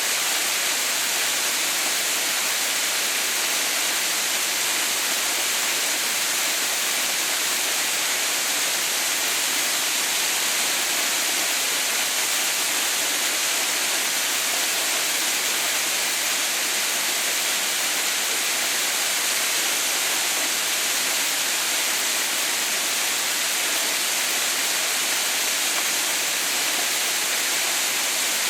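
Waterfall: water pouring down in a constant, even rush with no breaks.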